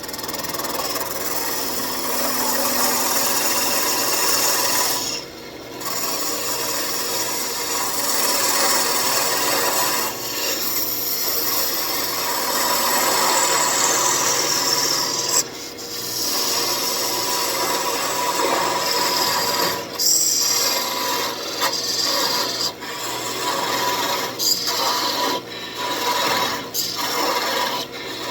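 Walnut spinning on a wood lathe as a hand-held tool and abrasive work its face: a continuous scraping rasp, broken every few seconds by short pauses as the tool lifts off.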